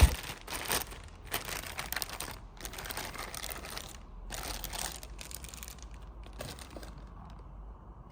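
Rustling, crinkling handling noise with scattered light knocks, dying down about seven seconds in.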